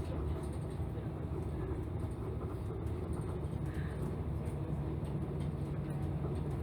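Running noise heard inside a city bus: the engine and road noise make a steady low hum as the bus drives along.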